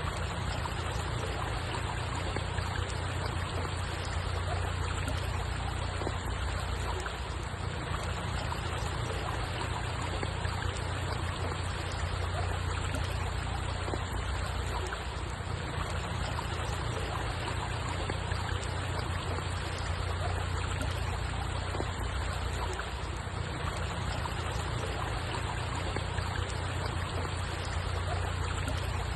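Steady flowing, trickling water: an even, unbroken wash of sound with a deep rumble underneath.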